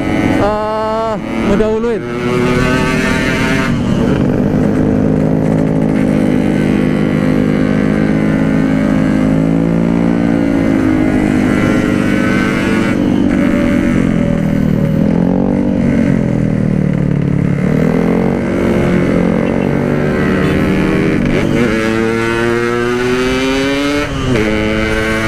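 Yamaha RX-King's 135cc single-cylinder two-stroke engine running on the road, its pitch rising and falling repeatedly as the throttle is opened and eased, climbing steeply near the end before dropping back. The rider says the engine is down on top-end power.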